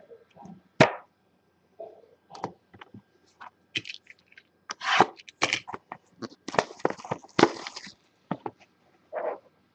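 Trading-card packaging being handled and opened: crinkling wrapper, cardboard scraping and sharp clicks, in irregular bursts with the busiest stretch in the second half.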